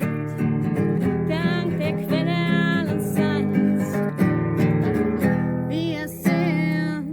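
Acoustic guitar strummed steadily under a voice singing long, wavering held notes.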